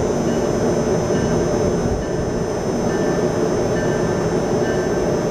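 Steady rumble of an Amtrak train led by an HHP-8 electric locomotive approaching the station, with a thin steady high whine.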